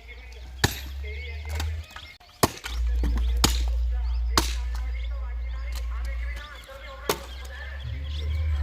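Axe chopping firewood logs: about five sharp blows, irregularly spaced a second or more apart.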